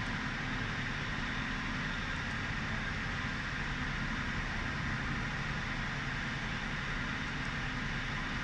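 Ford Crown Victoria's V8 idling steadily, a low hum with a hiss over it. The engine is misfiring on cylinders 5 and 6.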